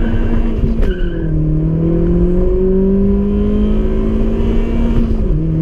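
Opel Astra Bertone coupe, tuned to 270 hp, accelerating hard at full throttle: the engine note drops with a click at a gear change about a second in, climbs steadily through the next gear, and drops again at another shift near the end.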